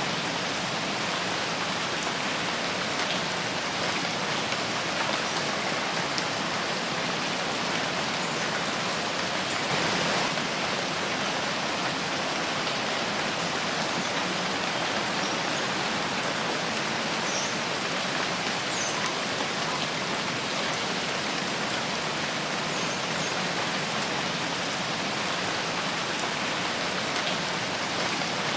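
Steady rain falling in a forest, a dense even patter of drops, with a brief slight swell about ten seconds in.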